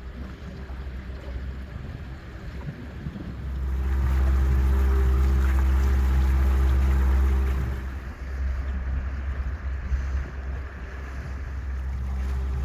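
Shanty boat's motor running under way, a steady low hum that rises in level about three seconds in, holds for a few seconds, then eases back.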